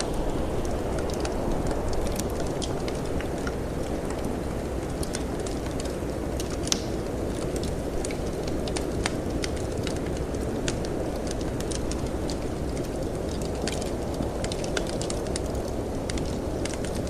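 Wood fire crackling in a fireplace, with irregular sharp pops and snaps, over a steady low rush of howling storm wind.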